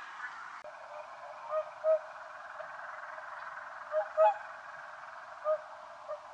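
A recorded animal sound played back through a talking pen's small speaker: a steady hiss with short, soft calls at intervals, several of them in pairs about a third of a second apart.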